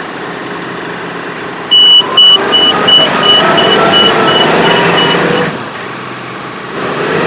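Compact diesel tractor engine running and rising in revs under load. A high electronic beep repeats about three times a second for a few seconds.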